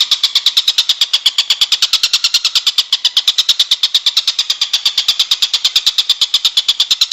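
Songbird song from a bird-training master recording: a fast, even, high-pitched rattling trill of about ten notes a second, running on without a break.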